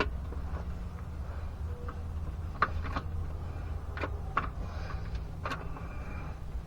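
A handful of short, sharp clicks and taps as parts of a transfer case actuator are worked into place by hand, over a steady low hum.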